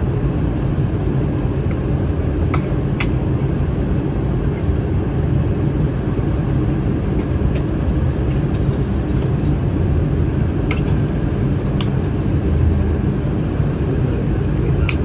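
Steady in-flight cabin noise of an Airbus A319: a low, even rumble of airflow and its CFM56 engines, with a few faint clicks.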